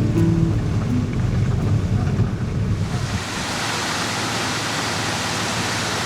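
Music over a low rumble for the first few seconds. About three seconds in, a steady, loud rush of fast-flowing floodwater takes over.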